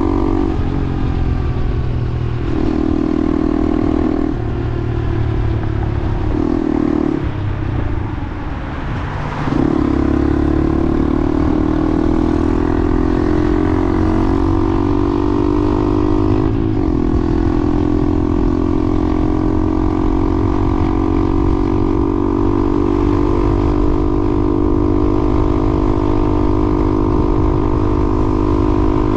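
Motorcycle engine accelerating up through the gears, its tone breaking off briefly at each shift. From about ten seconds in it holds a steady cruising drone, slowly rising, over a constant rush of wind and road noise.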